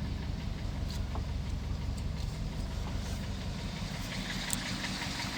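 1937 Vauxhall H 10/4's four-cylinder engine idling steadily.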